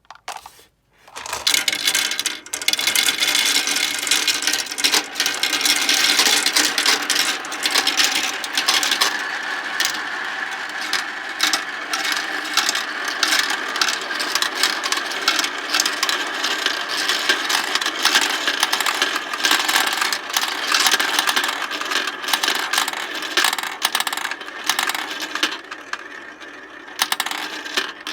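Many marbles clattering and rolling down a marble run fed by an automatic dispenser, a dense, continuous rattle of small hard clicks that starts about a second in.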